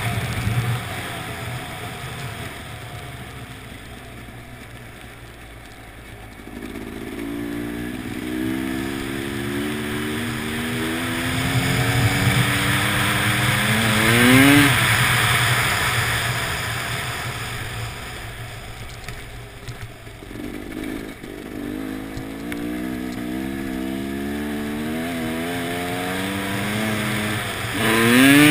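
Motorcycle engine accelerating on an ice track, its pitch climbing steadily twice and each time shooting up sharply before dropping off, under steady wind rush.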